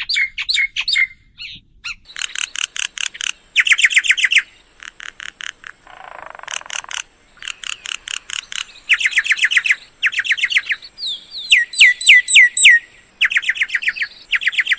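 Myna calling: fast runs of repeated chirps and clicks, series of downward-sliding whistled notes, and a harsh rasping note about six seconds in.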